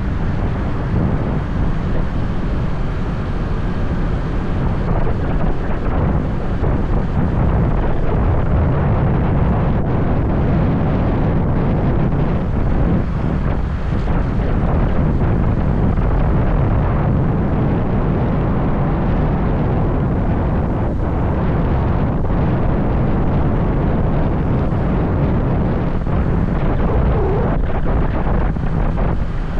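Steady low wind rumble buffeting the microphone of a moving motorbike, with the bike's running and road noise underneath.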